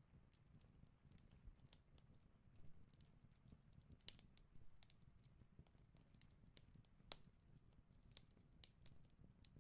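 Very quiet: faint, irregular ticks and scratches of a pencil drawing on pattern paper and a plastic ruler being handled.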